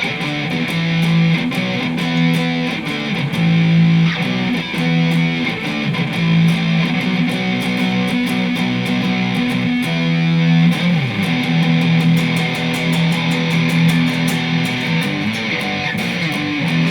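Electric guitar with distortion playing a practice riff: a low note repeated in quick picked strokes, with other notes moving above it.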